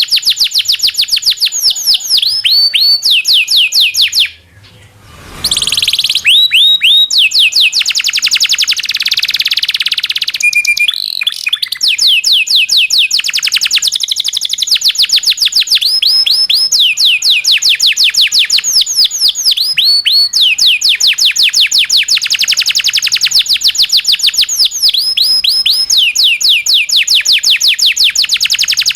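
Domestic canary singing long rolling trills: rapid runs of repeated sweeping notes that change pace and pitch from phrase to phrase, with a brief pause about four seconds in.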